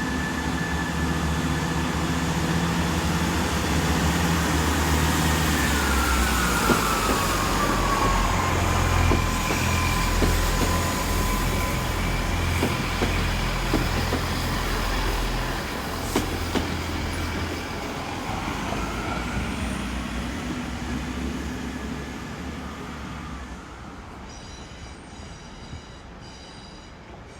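Class 166 Turbo diesel multiple unit pulling out: a steady deep diesel engine note with a whine that drops in pitch about six seconds in, then the sound fades away over the last ten seconds as the train moves off.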